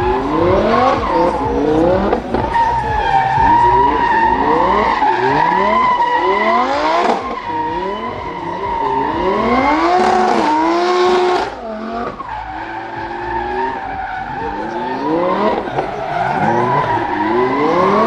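Drift car's engine revving hard in repeated rising sweeps over a steady, high tyre squeal as the car slides. It eases off briefly about two-thirds of the way through.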